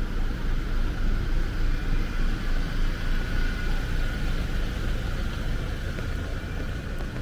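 Heavy rain pouring in a steady rush, with a low rumble underneath.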